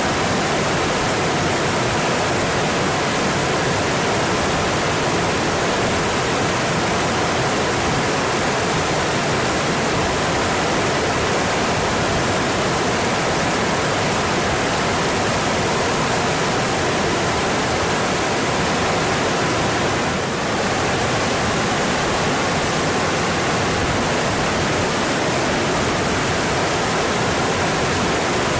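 Mountain stream rushing steadily over rocks, an even, unbroken wash of water, with a momentary dip in level about twenty seconds in.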